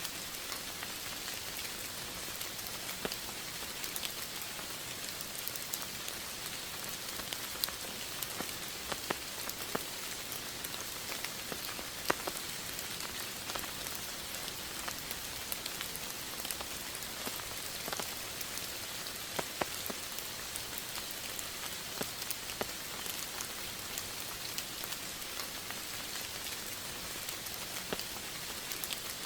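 Steady rain falling, with individual close raindrops ticking against a surface at irregular moments.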